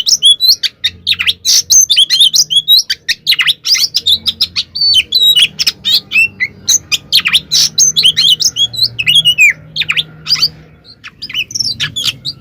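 Oriental magpie-robin (kacer) singing a fast, unbroken run of sharp chirps and whistled notes, with a short pause about eleven seconds in.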